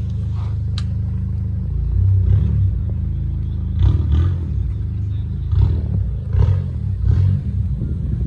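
A car engine running close by with a steady low rumble, swelling in uneven surges from about two seconds in.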